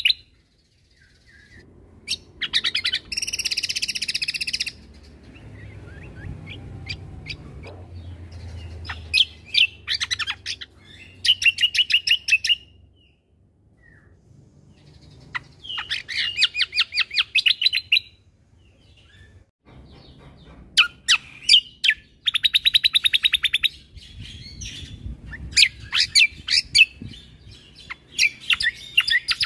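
Great iora (cucak kombo) singing: repeated bursts of rapid, evenly spaced high notes, each lasting a second or two with short pauses between, mixed with a couple of harsher buzzy phrases.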